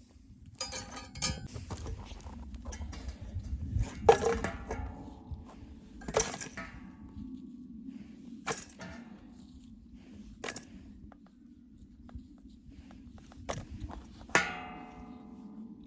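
A string of scattered knocks and clinks, the loudest about four, six and fourteen seconds in ringing on briefly, over a steady low hum.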